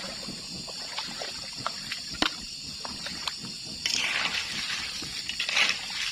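Water trickling and sloshing, with scattered light clicks and a steady high hiss behind.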